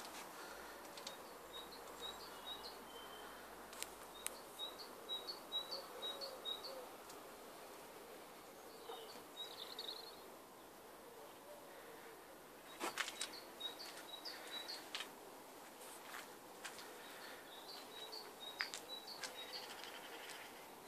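Faint outdoor background with small birds chirping in short runs of quick repeated notes, and a few sharp clicks.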